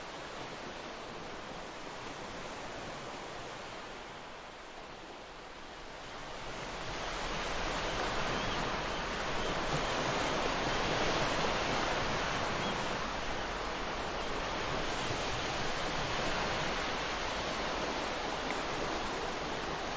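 Ocean surf: waves breaking and washing up the beach in a steady rush. It dips briefly about a quarter of the way in, then swells louder as a bigger wave comes in.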